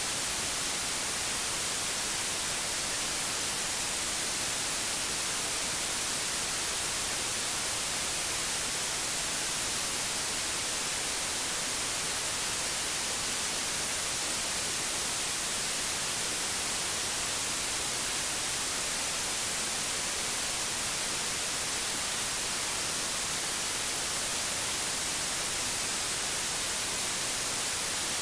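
Steady white noise: an even, unbroken hiss, strongest in the high treble, with no change in level.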